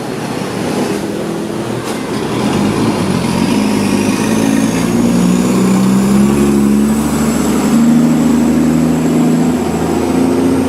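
A motor vehicle's engine running close by, growing louder over the first several seconds, with a faint high whine that rises in pitch and then holds.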